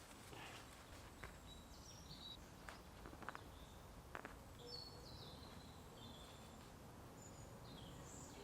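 Faint woodland birdsong: scattered short chirps and whistles from small birds over a low, steady background hush, with a few soft clicks.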